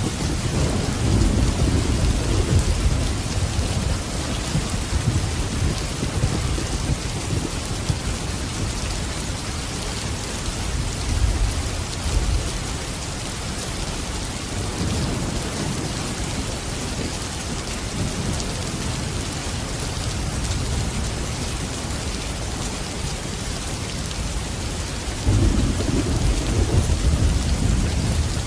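Steady rain falling, with rolling thunder rumbling low underneath; the thunder swells near the start, again around the middle, and loudest near the end.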